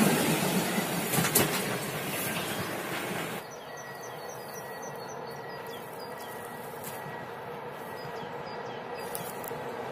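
A train running past and receding, with wheels clicking over the rail joints as it fades. About three and a half seconds in the sound drops away abruptly, leaving a quiet background with a run of short high chirps.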